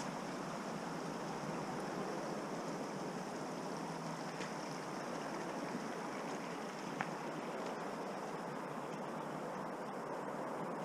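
Steady rushing water noise, with a single sharp click about seven seconds in.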